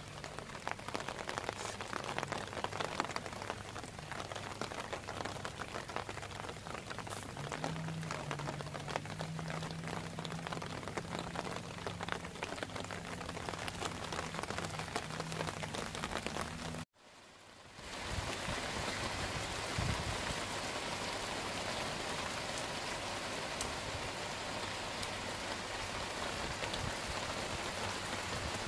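Rain falling, a dense steady patter. It cuts out briefly about seventeen seconds in and comes back as an even hiss.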